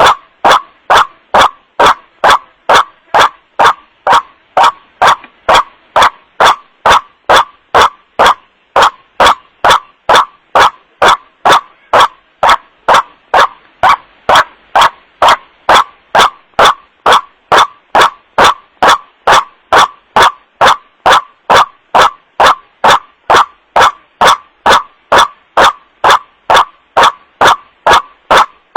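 Recorded call of a white-breasted waterhen (kuruak), a loud 'wak-wak' repeated about twice a second, played back as a bird-trapping lure. There is a short break about a third of the way in, then the calls go on.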